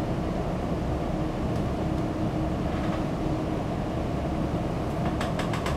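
Steady low room hum, with a quick run of about five clicks near the end, as calculator keys are pressed to work out a sound level in decibels.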